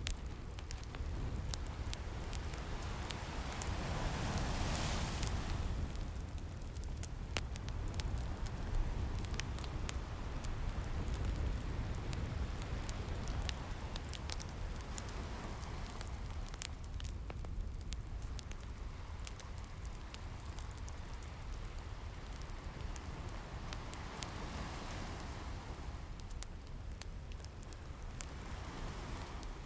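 Fire crackling with many sharp pops over the wash of ocean waves, which swell and recede several times.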